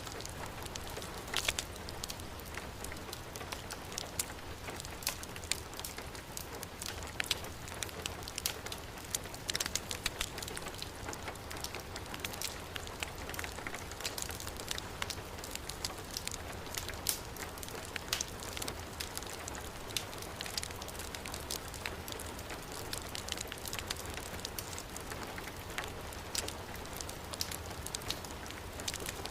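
Heavy rain falling steadily, mixed with the frequent sharp pops and crackle of a burning wood fire.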